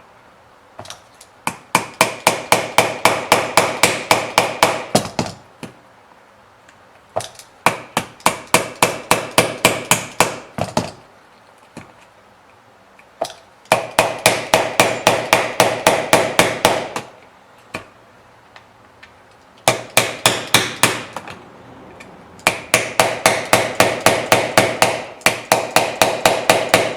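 Hammer tapping a blade along the seam of a sealed plastic tail light housing to break the factory seal: five runs of rapid taps, about five a second, each strike with a slight metallic ring, separated by short pauses.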